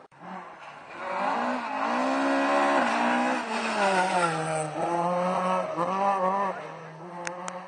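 Rally car engine at high revs driving past, its pitch climbing and then dropping sharply several times as it changes gear.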